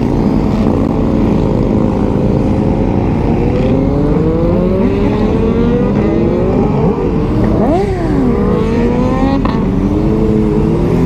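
Several sportbike engines accelerating together, their pitch climbing and dropping back again and again as they shift up through the gears, over a constant low rumble. Near 8 seconds one engine's pitch rises and falls quickly.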